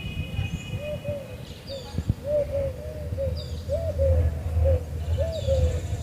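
A dove cooing, a run of short soft double coos repeated over and over, over a low rumble.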